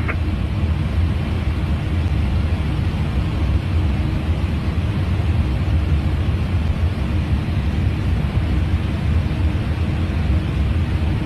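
Steady noise inside an airliner's cockpit in cruise flight: a constant low rumble of airflow and engines with a faint steady hum.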